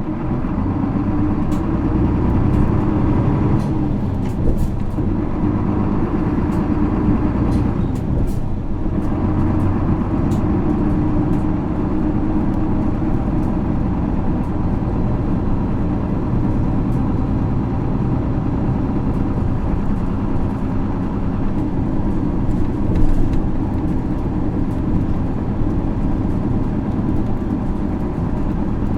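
Isuzu 6HK1 inline-six diesel of an Isuzu PKG-LV234L2 city bus pulling away and running, heard inside the cabin. The engine sound drops briefly about four and eight seconds in, as the automated five-speed gearbox changes up, then runs on steadily, with light rattling clicks over it.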